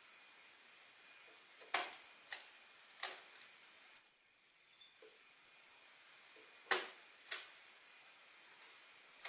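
Orange-headed thrush (anis merah) calling: a few sharp clicking chip notes and, midway, one loud, thin, high whistle that falls in pitch over about a second, the 'ngecis' call used to lure males. A steady faint high tone runs underneath.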